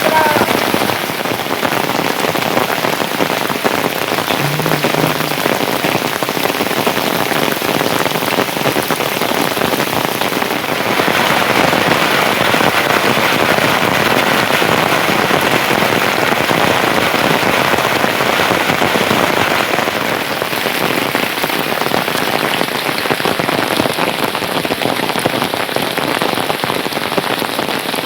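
Heavy rain falling steadily, a loud, dense patter of drops that keeps up without a break.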